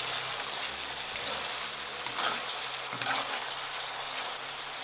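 Pork and beets sizzling in their sauce in a cast-iron pot, a steady sizzle, with a spoon stirring and scraping through the food a few times.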